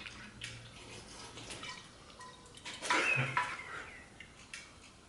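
Whiskey being poured into a motorcycle's fuel tank: liquid dripping and trickling with small clinks, and a brief louder sound about three seconds in.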